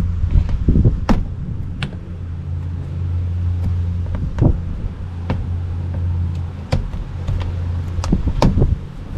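Scattered, irregular clicks and knocks from hand work on the car over a steady low hum.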